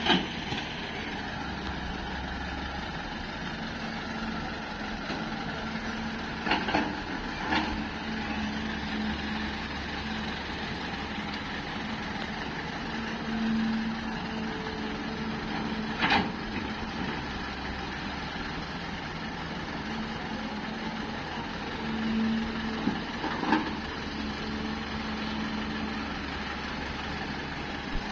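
Heavy diesel machinery running steadily, with a few short sharp knocks, two close together and two single ones later.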